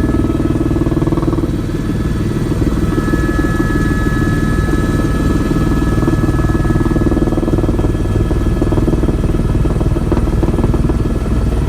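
Helicopter cabin noise: a loud, steady drone from the rotor and engine, with thin steady whine tones above it.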